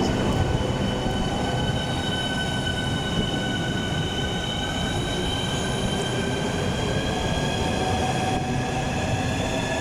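Two coupled Southeastern Class 395 high-speed electric multiple units pulling away, their electric traction whine slowly rising in pitch as the train accelerates, over a steady rumble of the wheels on the rails.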